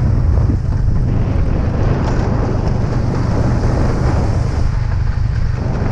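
Motorcycle under way, its engine drone buried under heavy wind buffeting on the microphone, which makes a steady low rumble.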